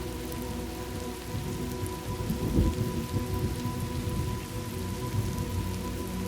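Steady rain falling, with a short low rumble of thunder about two and a half seconds in.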